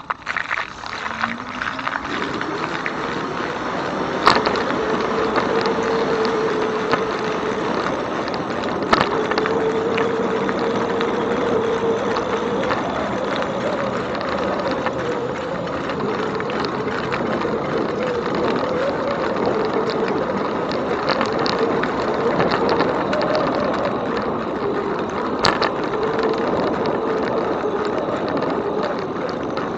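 Electric bike motor whining, its pitch rising over the first few seconds as the bike speeds up, then holding steady, over a constant rushing noise of the ride. Three sharp knocks come about four, nine and twenty-five seconds in.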